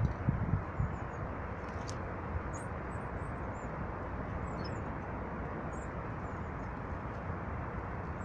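Small birds giving short, high chirps every second or so over a steady low rumble of outdoor background noise, with a few low thumps of wind on the microphone in the first second.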